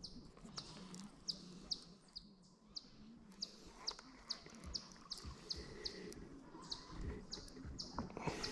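A bird calling a steady series of short, high, falling chirps, about two to three a second.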